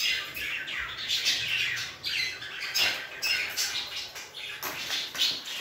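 Birds chirping: many short, high calls in quick succession, some sliding downward.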